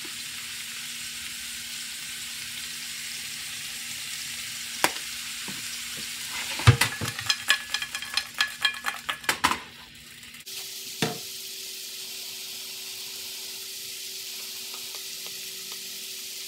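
Stir-fried mixed vegetables sizzling in oil in a frying pan. About two-thirds of the way in comes a quick run of clacks and scrapes as a spatula stirs and tosses them, and a single knock follows.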